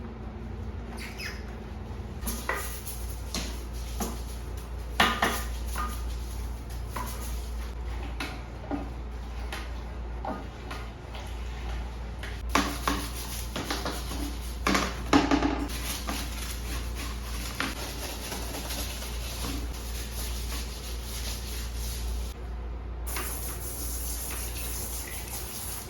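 Household handling sounds: scattered short clinks and knocks of dishes or utensils being moved, over a steady low hum, busiest in the second half.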